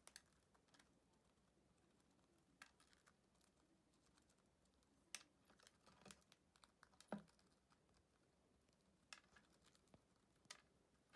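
Faint, scattered small clicks and taps, a second or two apart, over near-silent room tone.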